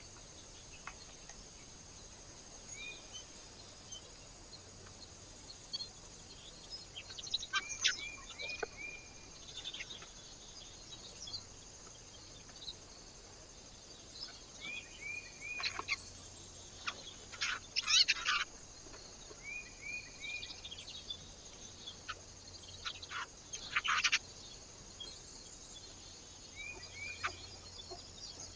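Small birds at a feeder calling in short series of three or four quick chirps, repeated every few seconds, with several sharp scratchy bursts in between, the loudest about two-thirds of the way through.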